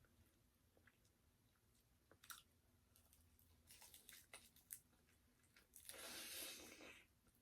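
Quiet close-up eating sounds of someone chewing fried chicken: scattered faint crunches and mouth clicks, then a louder crackling crunch lasting about a second, about six seconds in.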